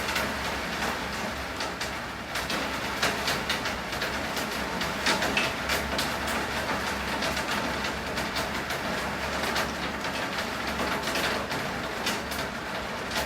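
Steady rain falling, with many irregular drips and spatters ticking on hard surfaces, over a faint low steady hum.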